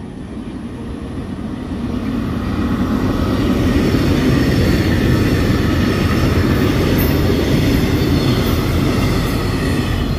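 Electric multiple-unit passenger train passing close by, its wheels and running gear on the rails. The sound builds over the first three seconds or so as it approaches, then stays steady and loud as the cars go by.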